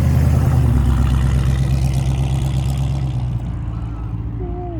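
Classic American car, an AMC AMX, driving slowly past with its engine running in a steady low tone; the sound eases off about three and a half seconds in as it moves away.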